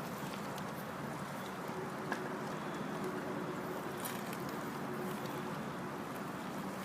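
Steady outdoor background noise: an even hiss with a faint low drone under it, and one small click about two seconds in.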